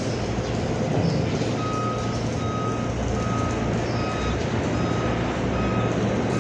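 A vehicle's reversing alarm beeping at a single steady pitch, a little more than once a second, starting about one and a half seconds in, over the steady low drone of a running diesel engine.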